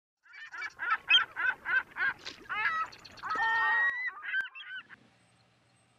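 A bird calling: a quick run of short calls, about four a second, then a few longer calls that bend up and down in pitch, stopping about five seconds in.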